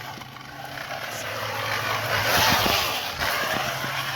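Aluminium drink can held against a bicycle's rear tyre, rattling rapidly against the turning wheel. It grows louder and is loudest about two and a half seconds in.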